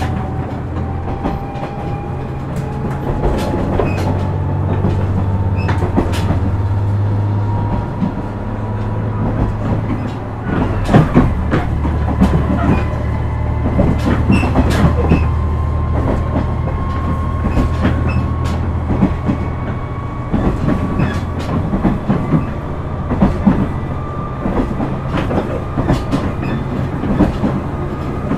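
KiHa 126 series diesel railcar heard on board while running. Its diesel engine drones steadily under a thin whine that rises slowly in pitch as the train gathers speed, with rail-joint clicks throughout. The engine note drops away briefly about eight seconds in, then comes back.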